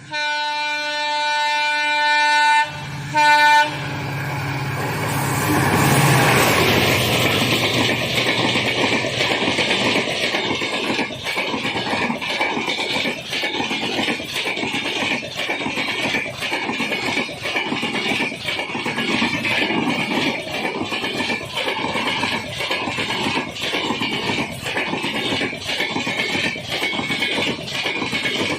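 Train locomotive horn: one long blast, then a short second blast about three seconds in, followed by the loud rumble of a passenger train passing at speed with rhythmic wheel clatter over the rails.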